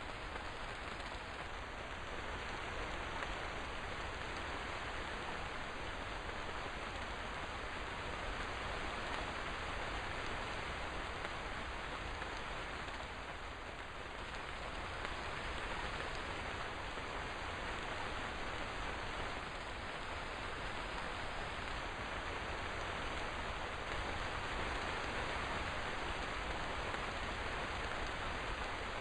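Steady rain falling, a continuous even patter without breaks.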